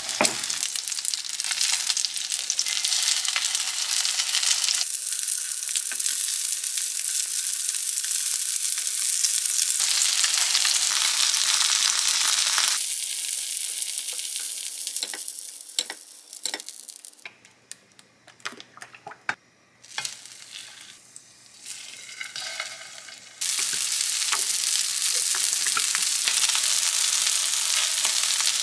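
Egg-battered oysters (oyster jeon) sizzling as they fry in oil in a nonstick frying pan. Partway through, the sizzle falls away for several seconds, leaving only light clicks and taps, then comes back at full level.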